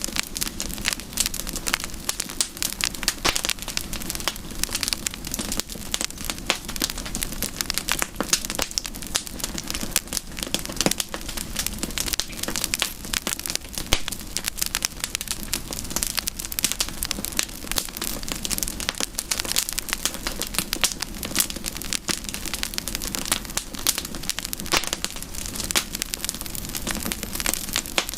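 Campfire burning with dense, irregular crackling and popping of wood over a steady hiss.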